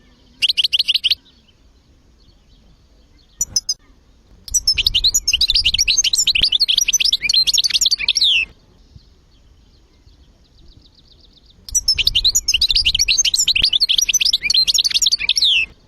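European goldfinch singing: a short burst of rapid twittering just after the start, a few brief notes, then two long phrases of fast, tinkling notes, each about four seconds, with faint high chirping between them.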